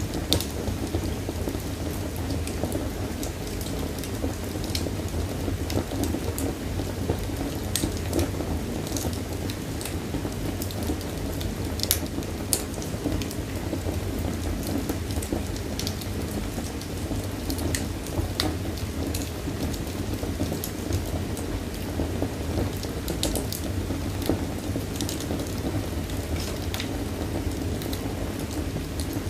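Wood fire crackling: scattered sharp pops and snaps over a steady low rumble of burning.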